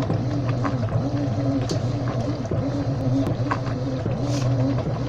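Washing machine running: a steady motor hum with a wavering, slightly pulsing tone over it and scattered light clicks and rattles.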